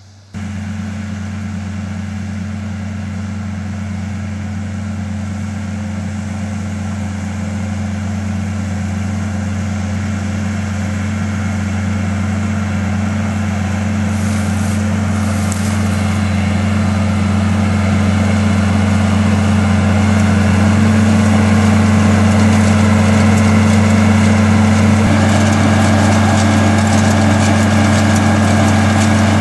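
Tractor engine running steadily, cutting in abruptly just after the start and growing gradually louder.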